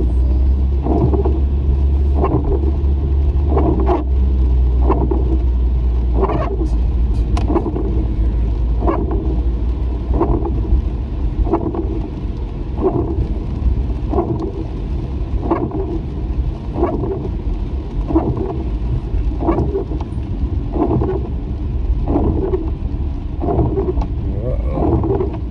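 Car cabin road noise, a steady low rumble of the moving car, with windshield wipers sweeping about every 1.3 seconds in the rain.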